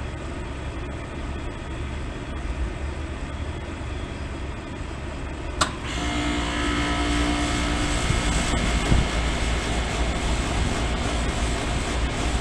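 2003 Bryant 561C air conditioner condensing unit starting up: a sharp click a little under halfway through, then the compressor and condenser fan come on and run steadily, louder, with a steady hum.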